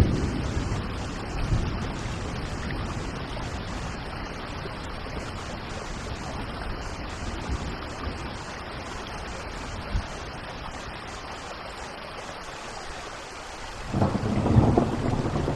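Steady rain falling, with rumbles of thunder: one right at the start and a louder roll near the end.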